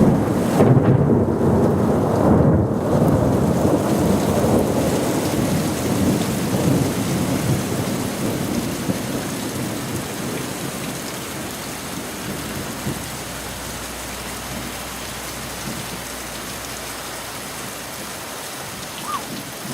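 Thunder rumbling, loudest at the start and dying away over about ten seconds, over steady rain.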